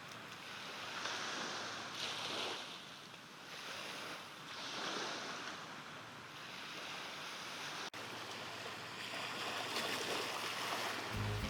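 Small sea waves washing on the shore, the wash swelling and fading every two or three seconds. Music comes in just at the end.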